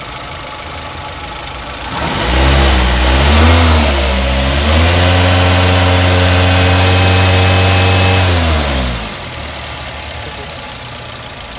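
Toyota Avanza's four-cylinder DOHC 16-valve VVT-i engine idling, then revved about two seconds in: a couple of quick blips, then held at higher revs for about three seconds before dropping back to idle.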